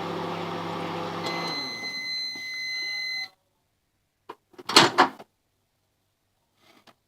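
Microwave oven running with a steady hum that winds down, while a single long beep sounds for about two seconds at the end of the cycle. Then the microwave door is released and opened with a loud clunk, followed by a few small clicks.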